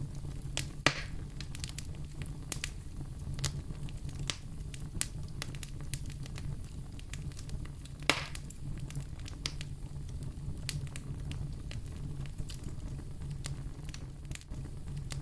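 Wood fire crackling in a fireplace: frequent small pops and ticks, with two louder snaps about a second in and about eight seconds in, over a steady low rumble.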